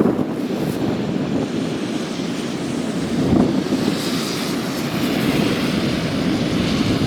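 Car driving, heard from a dashcam inside the cabin: steady road and engine noise with strong gusts of wind buffeting the car, one swelling about three seconds in.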